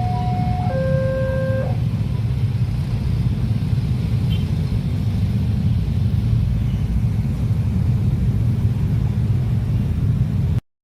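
Level-crossing warning alarm sounding its two alternating tones, high then low, and stopping about two seconds in, over a loud steady low rumble of a passing train.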